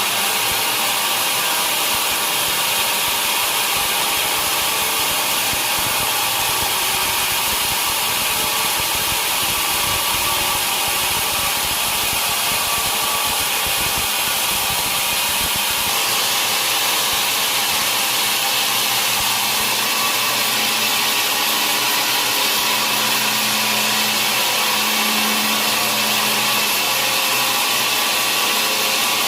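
Sawmill saw running steadily through a large mahogany log, a loud, even noise that doesn't let up.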